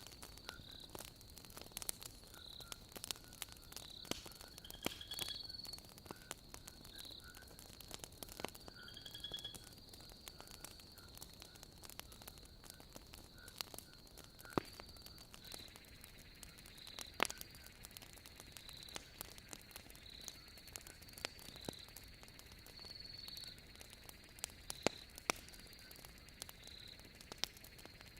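Wood fire crackling, with irregular small clicks and an occasional sharper pop, over a steady high trill of crickets chirping.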